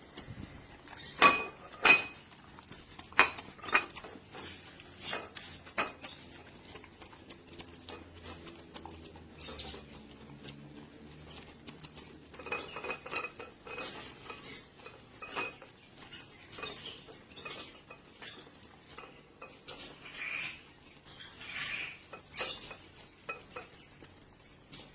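Irregular clinks and taps of a dish and cutlery, the loudest few in the first several seconds, with quieter scattered taps and scraping after.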